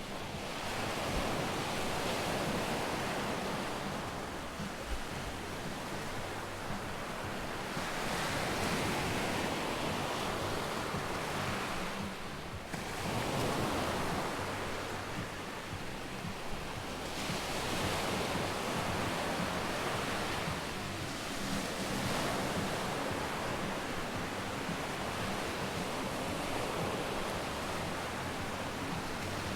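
Sea waves breaking and washing up on a sandy beach, a steady rush of surf that swells and eases every few seconds.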